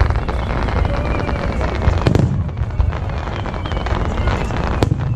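Fireworks display: aerial shells bursting in a continuous rumble and crackle, with sharp bangs about two seconds in and again near the end.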